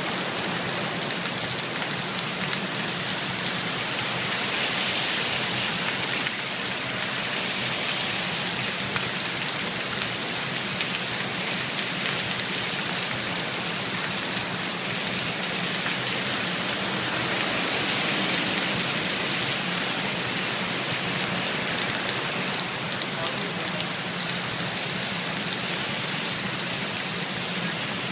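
Heavy rain falling steadily, an even hiss of drops on hard surfaces that swells slightly twice.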